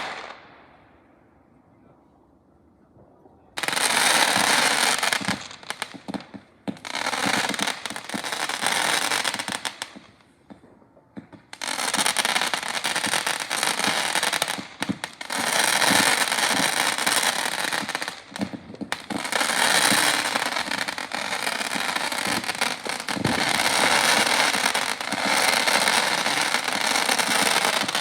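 Fireworks crackling: dense streams of rapid small pops and crackles. They start suddenly about three and a half seconds in, break off briefly a few times, and run on almost without pause through the second half.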